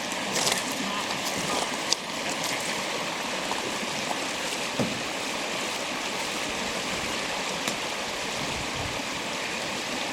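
River current rushing steadily, with a few brief sharp clicks or knocks scattered through it.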